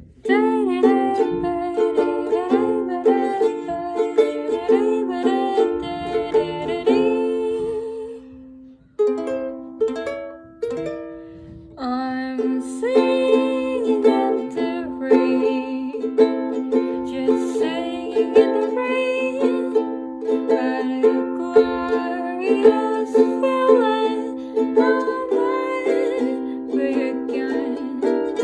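Music played on a plucked string instrument: a melody over chords, thinning to a few sparse notes from about eight to twelve seconds in, then full playing again.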